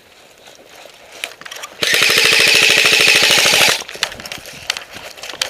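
Airsoft gun firing one rapid full-auto burst close by, a fast even rattle of shots lasting about two seconds, starting a little under two seconds in.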